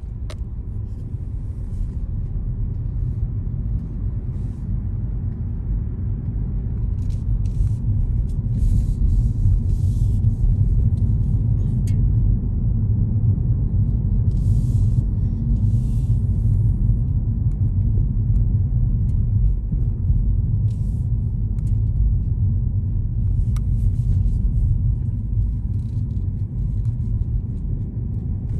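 Car driving on city streets: a steady low rumble of road and engine noise, a little louder from about eight seconds in.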